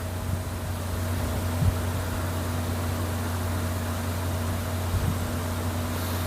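Nibe air source heat pump outdoor unit running: a steady low hum with an even fan whoosh and two fainter steady higher tones.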